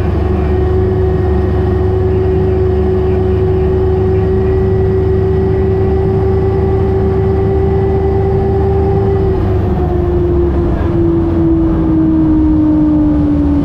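Turbine engines of a jet-powered race boat running at speed, a loud steady whine over a low rush. About nine seconds in, the whine begins to fall slowly in pitch.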